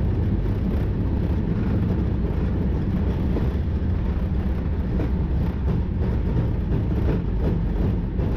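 Steady low rumble in a Boeing 777-300ER cockpit during the landing roll, as the airliner slows on the runway under reverse thrust and manual braking.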